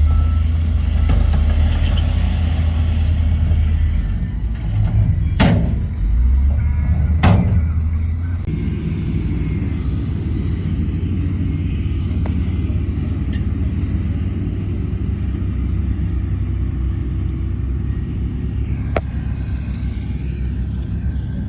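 Heavy diesel construction machinery running with a steady deep rumble, with two sharp knocks about five and seven seconds in and a lighter one near the end.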